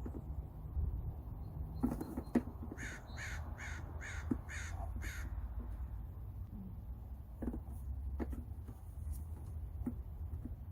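A crow cawing six times in quick succession, about a third of the way in. Scattered sharp clicks and knocks come before and after the calls.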